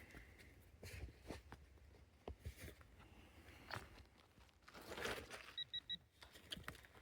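Faint scattered scrapes and clicks of hand digging through rocky debris, a louder rustle about five seconds in, then three quick high electronic beeps.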